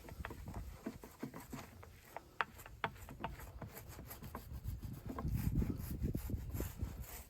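Rubbing with scattered light clicks and ticks from work on a wooden drum shell during fibreglass resin coating; it swells in the last couple of seconds.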